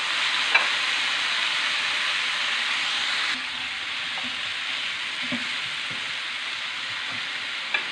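Steamed chicken pieces sizzling in hot oil with fried garlic in a frying pan, stirred with a wooden spatula, which gives a few light knocks against the pan. The sizzle gets a little quieter about three and a half seconds in.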